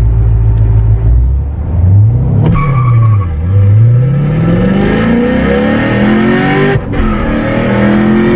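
2014 Corvette Stingray's 6.2-litre LT1 V8, fitted with a Borla exhaust, launching at full throttle in a 0 to 60 run, heard from inside the cabin. A low idle rumble gives way to rising revs that drop at a gear change about two and a half seconds in. The revs climb again to a second shift near the end and then rise once more.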